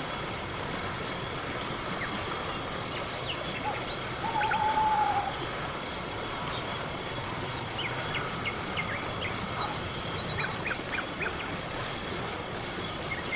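Night-forest ambience: a cricket chirping steadily, about two chirps a second, over a soft hiss, with a few faint short calls and a brief whistle in the background.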